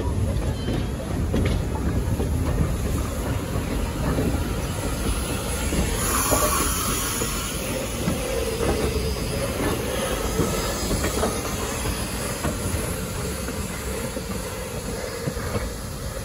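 Heritage railway train running along the track, a steady rumble of wheels on rails. A brief hiss comes about six seconds in, and a drawn-out wheel squeal follows from about eight to eleven seconds.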